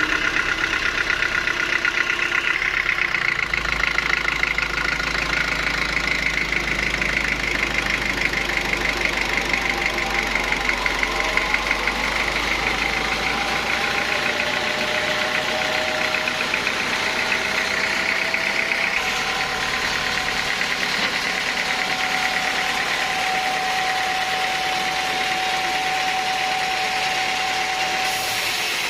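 Sawmill engine running steadily with a fast, even pulse, a few steady tones over it shifting slightly after about fourteen seconds.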